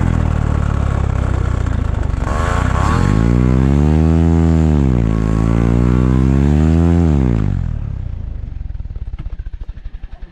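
Paramotor engine running loud, throttled up about two seconds in and held at high revs with a brief dip in the middle. Near the end it is throttled back to a slow, uneven idle.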